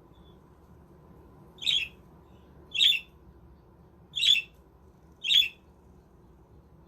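Budgerigar giving four short, harsh squawks, roughly one a second, with quiet between them.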